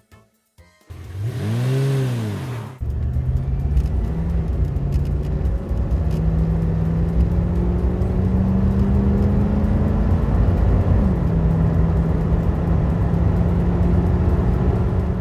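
A short cartoon sound effect whose pitch rises and falls, then from about three seconds in a heavy vehicle engine running steadily, its note creeping up and then dropping a step about eleven seconds in.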